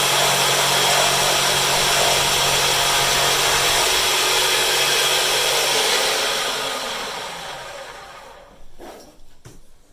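Homemade bandsaw running steadily, then switched off about six seconds in, its motor coasting down with a falling hum over a few seconds. A few short knocks near the end.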